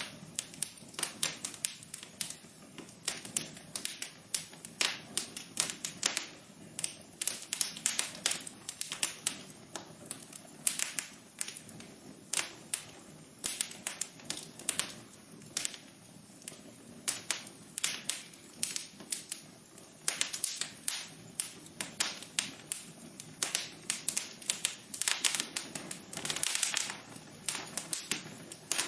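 Wood fire crackling and popping: irregular sharp snaps, several a second, over a soft steady hiss of the burning.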